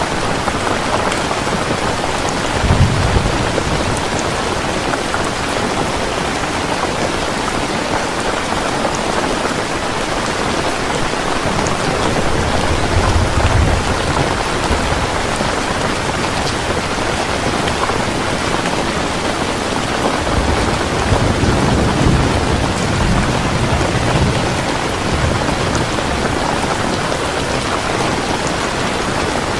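Heavy rain pouring steadily, with thunder rumbling low three times: briefly about three seconds in, again near the middle, and longest in the last third.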